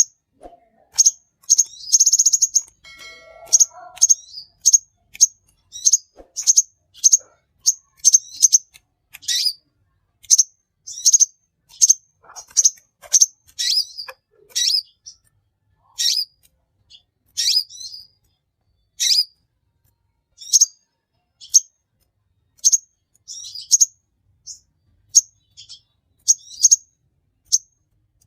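A small bird giving short, sharp high-pitched chirps, one or two a second, with a brief buzzy trill about two seconds in.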